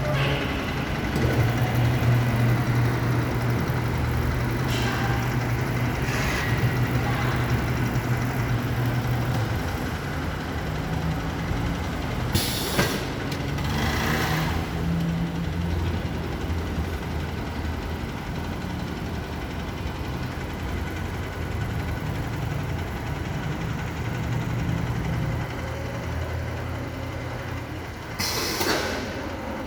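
Motorcycle running on a roller brake tester: a steady low mechanical hum that shifts in pitch as the brakes are tested one at a time. Short hissing bursts come about twelve seconds in, again shortly after, and near the end.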